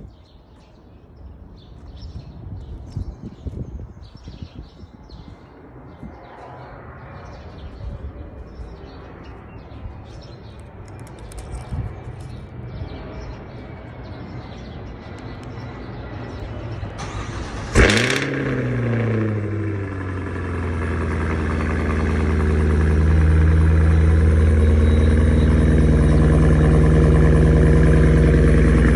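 2023 Cadillac Escalade-V's supercharged 6.2-litre V8 started from cold. After some quiet clicks, it fires about eighteen seconds in with a sharp rev flare that falls away, then settles into a loud, steady cold-start idle that swells a little a few seconds later.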